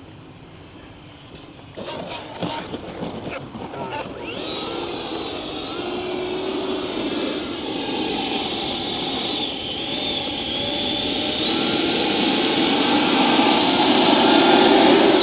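Electric ducted fan of an FMS BAE Hawk RC jet whining at high pitch, its pitch wavering up and down with the throttle. It builds in level to its loudest near the end, then cuts off abruptly. A few knocks come just before it.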